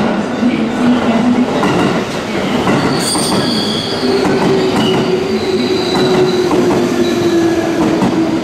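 JR West 221 series electric train running into the station along the platform: a steady loud rumble of wheels on rails, with high-pitched wheel squeals about three to four seconds in and a steady tone through the second half.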